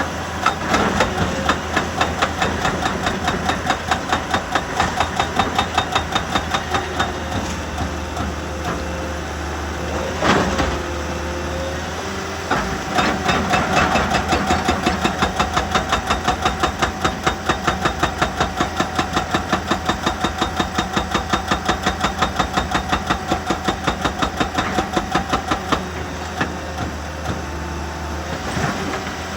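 Excavator-mounted hydraulic breaker hammering rock in rapid, evenly spaced blows over the machine's running engine. The hammering stops for a few seconds near the middle, broken by one single knock, then starts again and stops a few seconds before the end.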